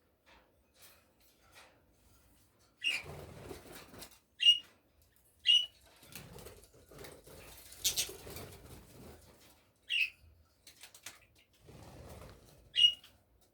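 Small pet parrots fluttering and flapping their wings while they bathe, with about five short, sharp chirps in between.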